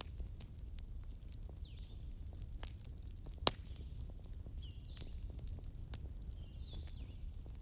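Wood campfire burning, with scattered crackles and one sharp pop about three and a half seconds in, over a steady low rumble of the flames.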